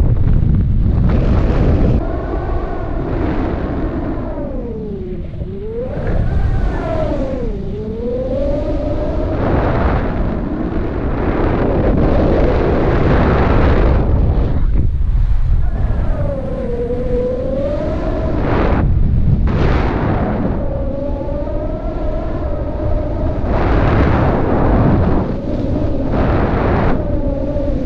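Wind rushing over the microphone in flight, a loud steady rumble. Over it, a wavering tone repeatedly glides down and back up.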